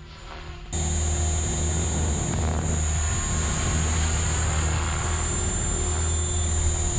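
Synergy 516 electric RC helicopter in flight: a steady high whine over a low drone from the rotor and motor. The sound jumps suddenly louder just under a second in, then holds even.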